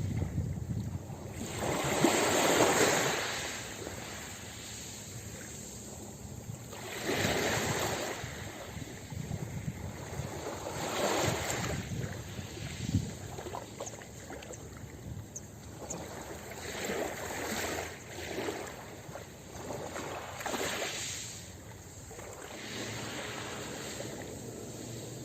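Ocean waves breaking on a beach. About five swells of surf rush in a few seconds apart, each rising and then washing away over a steady hiss.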